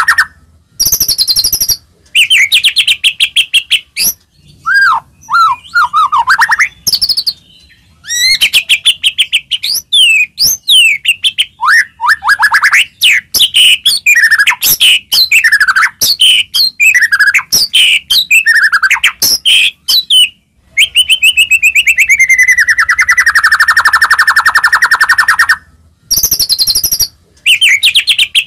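White-rumped shama (murai batu) singing loudly and combatively: rapid rattling trills, chirps and swooping whistled notes, with a long falling trill about three-quarters of the way through. This is the kind of aggressive song played to provoke another shama into singing.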